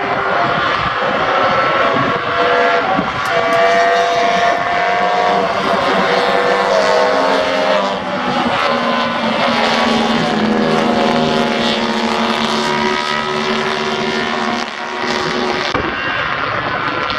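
Several vintage racing motorcycles, built before 1972, running at speed together, their engines' pitch rising and falling and overlapping as they go through a corner.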